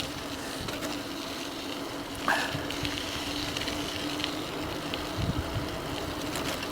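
E-bike riding along: wind on the microphone and tyre noise, with a steady low hum. A short falling squeak comes a little over two seconds in.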